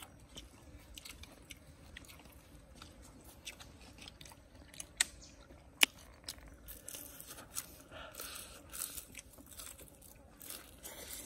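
Close-up eating of a fried spider: soft irregular crackles and clicks of chewing and handling, with two sharper cracks about five and six seconds in.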